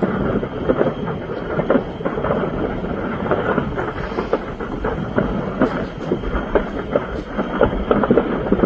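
A large fire crackling and popping, with many small irregular bursts going off in it like leftover fireworks, over a rumbling background.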